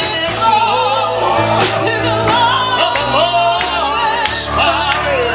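Live gospel music: singing with vibrato over band accompaniment with a steady beat.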